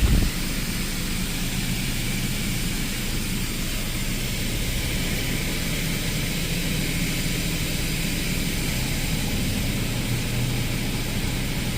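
Car engine idling with a steady low hum, with a brief knock right at the start.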